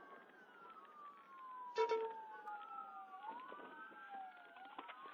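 Police car sirens wailing, at least two at once, their pitches rising and falling slowly and out of step with each other. A short, louder tone breaks in about two seconds in.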